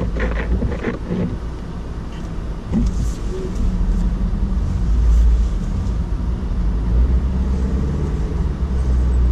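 Low, steady rumble of a 2016 Mazda CX-9 SUV driving on snow, heard from inside the cabin, getting louder about three seconds in.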